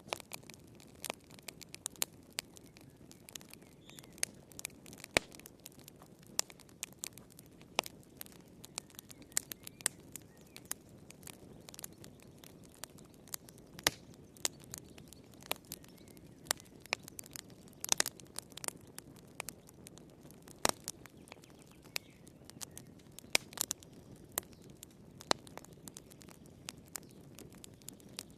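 Wood fire crackling in a fireplace: irregular sharp pops and snaps, a few louder ones scattered through, over a steady low hiss of the burning.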